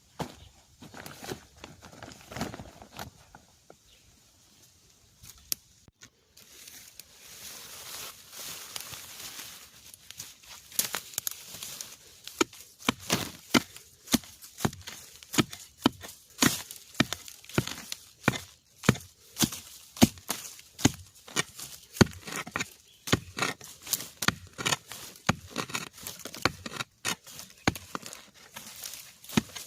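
Repeated sharp blows of a digging or chopping tool at a bamboo shoot, about two strikes a second, starting about a third of the way in, after some rustling and crackling of vegetation.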